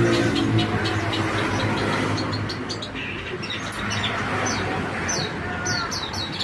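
Small birds chirping: many short, quick, falling high chirps from about two seconds in, over a steady background hiss. A vehicle engine hum fades away in the first second.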